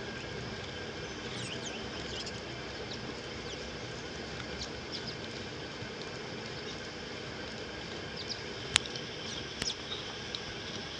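Small birds chirping in short high calls, twice in clusters, over a steady background hum, with one sharp click near the end.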